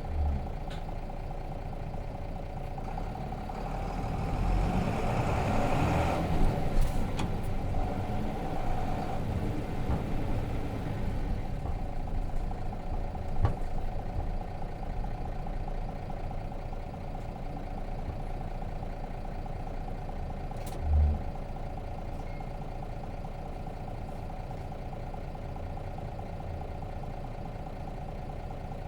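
Nissan Diesel RM bus's FE6 six-cylinder diesel engine running, heard from inside the cabin as a steady drone. It swells in loudness about four seconds in and eases back after about ten seconds, with a short low thump near the start and another about twenty seconds in.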